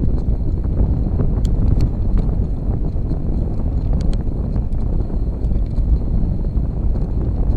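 Wind buffeting the microphone of a camera on a moving bicycle, a steady low rumble, with a few sharp clicks scattered through it.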